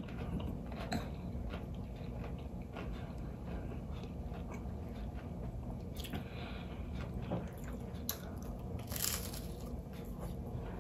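Close-up sound of someone biting into and chewing crisp breaded fried catfish: moist chewing with scattered crunches of the breading. Several sharper crunches come in the second half, the loudest near the end.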